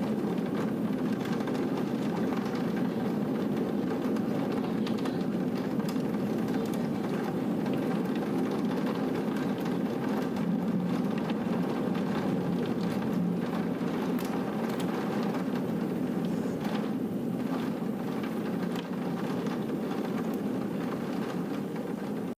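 Steady heavy rain during a thunderstorm, a dull, low noise with faint scattered drop ticks over it.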